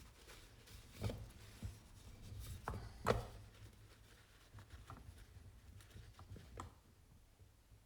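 Scattered light clicks and knocks of hand tools and small metal parts being handled while the timing chain guide is fastened onto an engine crankcase half, the sharpest three in the first few seconds, smaller taps after.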